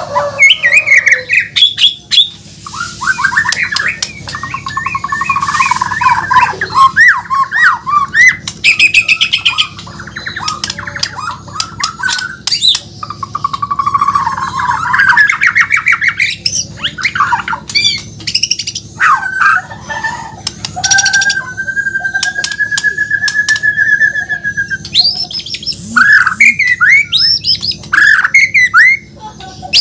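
White-rumped shama (murai batu, Bornean type) singing loudly: a varied run of rapid trills, chattering phrases and sharp clicking notes, with one long held whistle about two-thirds of the way through.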